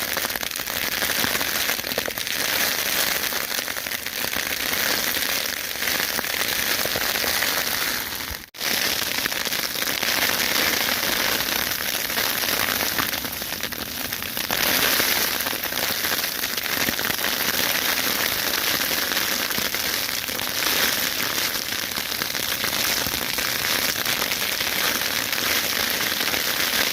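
A winter hail shower with rain falling, a dense, steady crackling patter that cuts out for a moment after about eight seconds.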